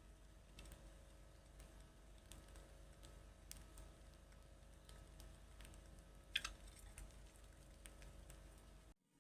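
Near silence: faint, scattered clicks and ticks over a low hum, with one sharper click about six and a half seconds in. The sound cuts out abruptly near the end.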